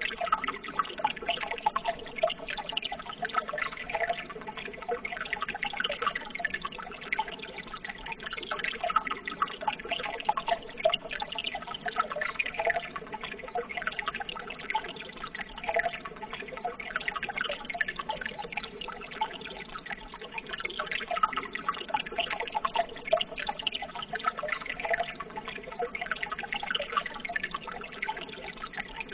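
Running water trickling and babbling steadily, with a dense patter of small splashes and drips.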